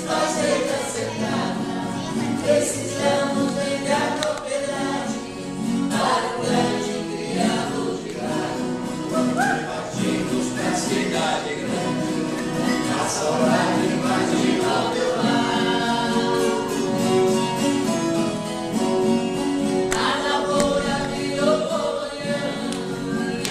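Several voices singing a caipira song together over strummed viola caipira.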